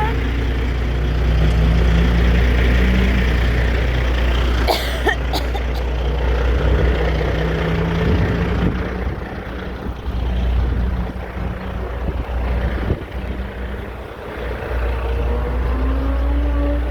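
Parked commercial truck's engine idling with a steady low drone. There is a sharp knock about five seconds in, and a faint rising tone near the end.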